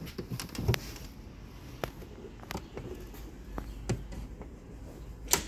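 Scattered sharp clicks and knocks, about five in all with the loudest near the end, from hand tools and metal parts during work on a car's rear suspension.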